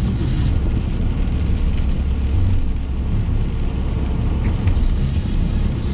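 Steady low rumble of a car's engine and tyres heard from inside the cabin while driving, with a faint hiss above it that is stronger near the start and near the end.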